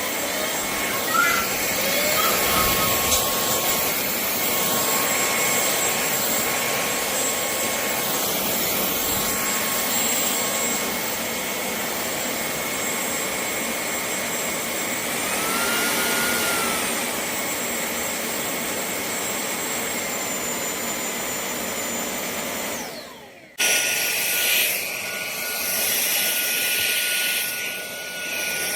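KCLASO cordless stick vacuum running steadily, a motor whine over rushing air. Near the end the sound cuts out for a moment and comes back with a different, higher whine.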